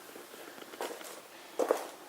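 Footsteps of a person walking, a few soft steps with a louder pair near the end.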